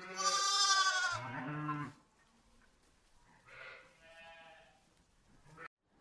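An animal's loud, wavering pitched call lasting about two seconds, followed by two fainter, shorter calls a little after the middle.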